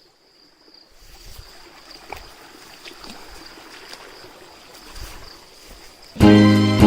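Soft steady rushing of a forest stream, with a faint high steady whine and a few low knocks. Loud background music comes in near the end.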